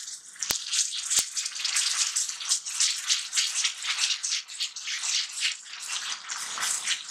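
Chopped onions and ginger-garlic paste frying in oil on a flat griddle pan (tawa), a metal spatula stirring and scraping them in quick, uneven strokes over the sizzle.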